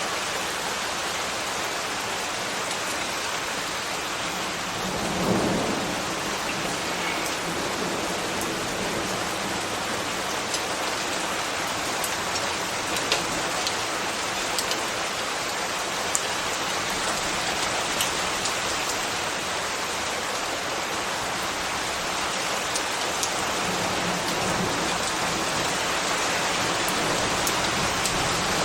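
Steady rain falling, with sharp ticks of individual drops hitting close by and a brief low swell about five seconds in.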